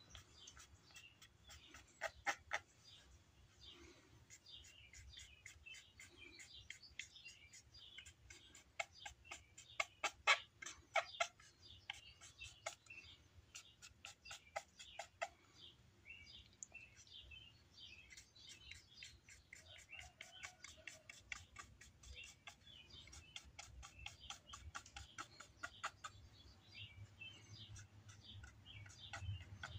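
Faint chirping of small birds, with quick soft scratching strokes of a charcoal pencil drawing on the carved fish, the loudest about 2 seconds in and around 10 to 11 seconds in.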